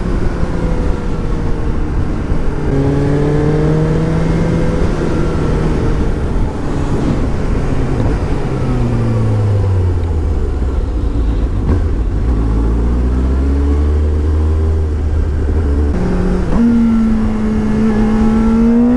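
Suzuki GSX-S750's inline-four engine under way. The revs step up after a few seconds, fall away slowly and run low and steady for a while. Near the end they jump and climb sharply under hard throttle, the acceleration that lifts the front wheel into a wheelie.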